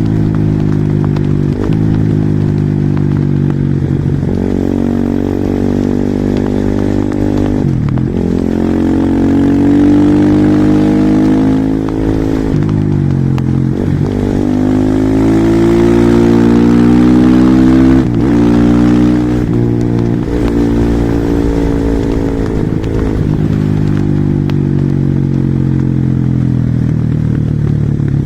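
Husqvarna SM 450R supermoto's single-cylinder four-stroke engine pulling hard, the revs climbing and then dropping sharply several times as it shifts gear or the throttle closes, running at a steadier pitch near the end.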